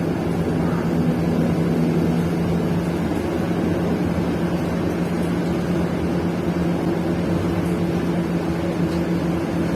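City bus engine running at a steady speed, heard from inside the passenger cabin: an even, unchanging low drone with a constant hum.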